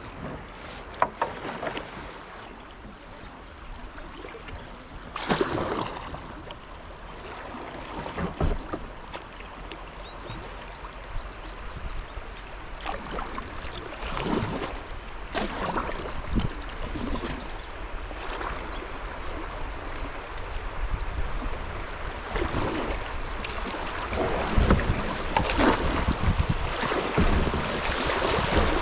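Kayak paddle blades splashing into the water in irregular strokes over the running water of a shallow river. The splashing grows louder and busier near the end.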